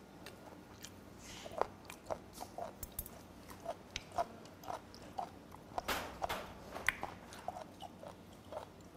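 A person chewing a mouthful of fermented skate (hongeo) sashimi: irregular wet mouth smacks and clicks, a few each second, growing busier about six seconds in.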